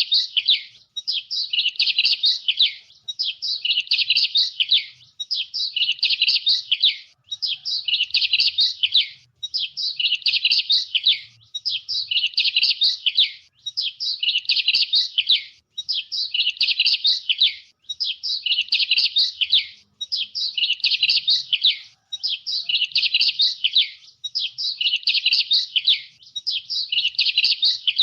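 A songbird singing a rapid, twittering phrase of just under two seconds, repeated over and over about every two seconds with only a short gap between phrases.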